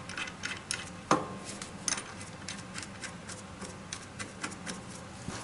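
Irregular clicks and clinks of metal parts and hand tools being handled during boiler reassembly, with one louder clank about a second in, over a steady low hum.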